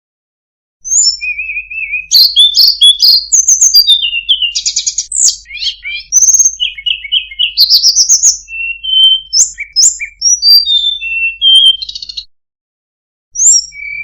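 Tledekan gunung singing a fast, varied song of whistled notes, rising trills and sharp clicking notes, pausing briefly twice.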